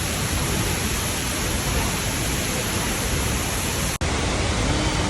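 Steady, loud roar of a large waterfall's falling water, with a brief dropout about four seconds in.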